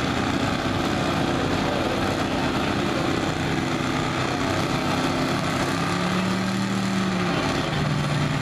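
Modified gas pickup truck's engine running hard at steady high revs while pulling a sled.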